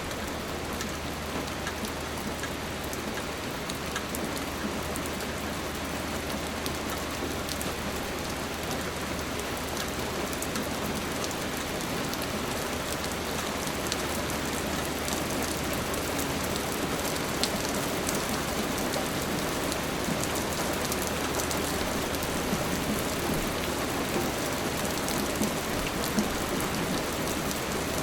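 Steady rain falling, with many small drops ticking individually against a dense hiss, over a low steady hum.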